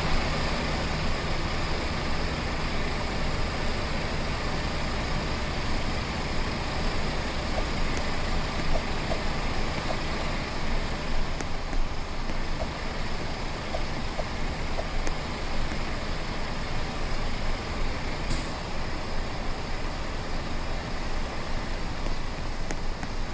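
A truck driving along a road: steady engine drone mixed with tyre and road noise, with one sharp tick about 18 seconds in.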